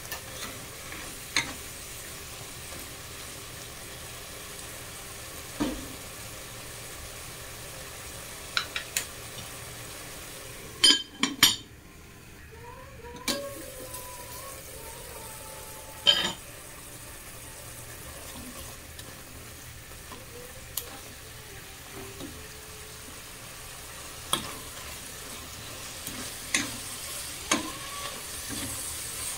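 Diced chicken and onions sizzling steadily in a pot, with a utensil clinking and scraping against the pot as it is stirred now and then. A few sharp clinks stand out about eleven and sixteen seconds in, and the sizzle dips briefly between them.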